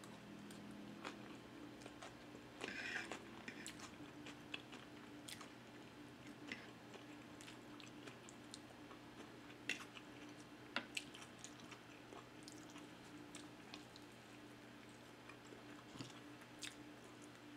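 Close-miked chewing of a mouthful of macaroni salad with lettuce: quiet wet crunches and mouth clicks, with a denser patch of crunching about three seconds in and a few sharper clicks later on.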